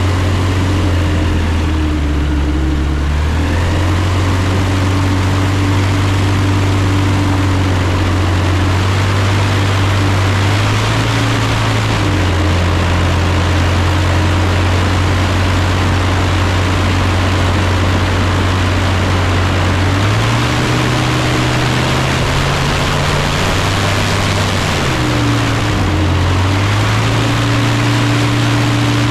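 Savannah ultralight's propeller engine running steadily at low power, its pitch shifting down and up a few times as the throttle is moved.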